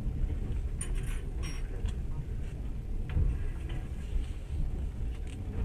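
Passenger train carriage interior: a steady low rumble from the running train, with light clinks and rattles scattered over it.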